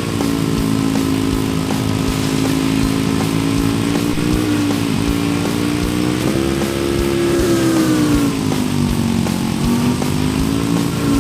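A small motor running steadily with a droning hum, its pitch wavering and sagging lower toward the end.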